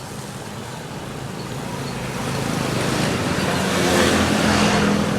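Road traffic noise, with a motor vehicle's engine growing louder as it approaches and passes close by, loudest about four seconds in.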